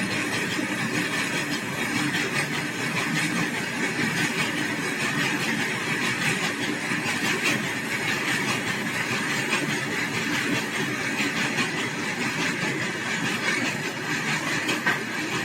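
Train running on the track: a steady rumble with a dense, irregular clatter of clicks.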